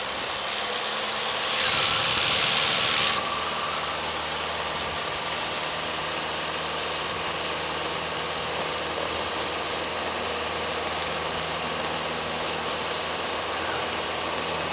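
Piper Cherokee 140's four-cylinder Lycoming engine running steadily, heard through the cockpit intercom. A hiss over it cuts off suddenly about three seconds in.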